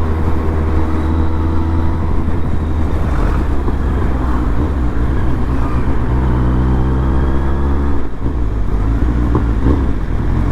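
Kawasaki Z800's inline-four engine running under way through an aftermarket Arrow exhaust, a steady low drone. About six seconds in its pitch climbs for a couple of seconds, then falls off sharply.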